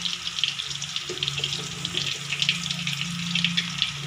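Pork meatballs sizzling and crackling as they fry in a little oil in an aluminium wok, with a continuous patter of small pops. A steady low hum runs underneath.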